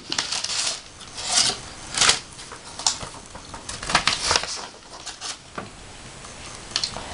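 Paper rustling and rubbing as an opened letter and its envelope are handled, in irregular bursts that grow sparse after about five and a half seconds.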